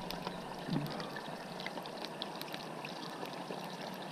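Chicken pieces sizzling in a little hot grease in a stainless steel frying pan over a low gas flame: a steady hiss with scattered small crackles, the early browning stage of steam-fried chicken.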